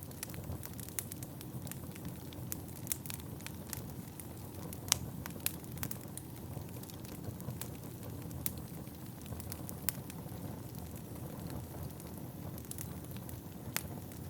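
Wood fire burning in a fireplace: a steady low rush of flames with frequent sharp crackles and pops of the burning wood, the loudest pop about five seconds in and another strong one near the end.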